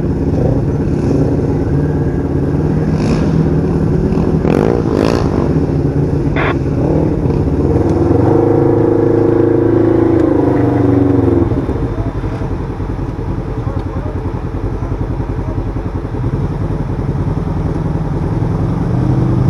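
Side-by-side UTV's twin-cylinder engine running on the trail, its pitch shifting with the throttle, with a few sharp knocks a quarter of the way in. The engine gets louder for a few seconds past the middle, then drops off suddenly.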